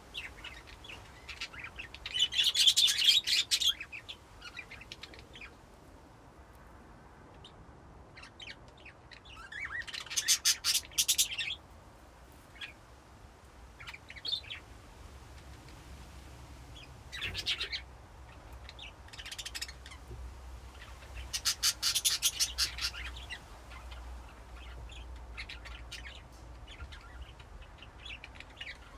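A flock of budgerigars chirping and chattering in a colony cage, in loud bursts of a second or two every few seconds with softer scattered chirps between.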